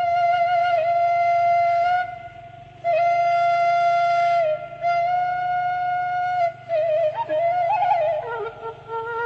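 Background music: a flute playing a slow melody of long held notes, with short breaks between phrases and quicker notes near the end.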